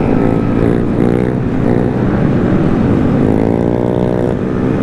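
Small gas motorcycle engines running close by, several at once, with one revving up about three seconds in and dropping back a little over a second later.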